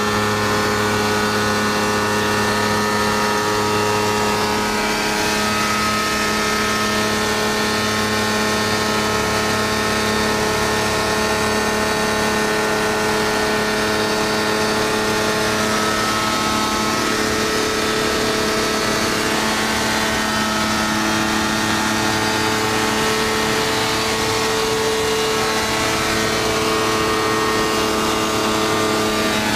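Kitfox light airplane's engine and propeller running steadily at power, a constant drone with small shifts in pitch.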